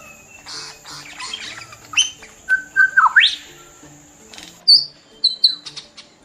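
Birds calling: whistled notes, quick rising and falling sweeps and short sharp chirps, over soft background music with slow held notes.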